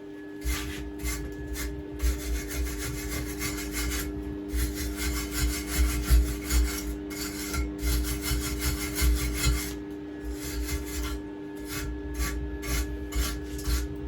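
Stick welding on a steel pit-bike swinging arm: the arc crackles and hisses in runs of a few seconds, broken by short pauses, over a steady low hum.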